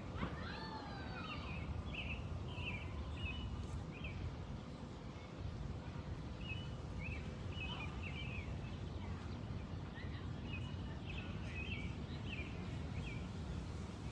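Small songbirds chirping in short runs of quick notes, with a louder falling call near the start, over a steady low background rumble.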